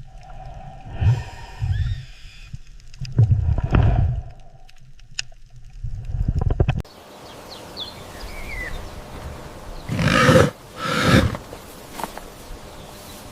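Large animal vocalizing: several low, deep sounds in the first half, then, after an abrupt change of background, two loud calls about a second apart near the end.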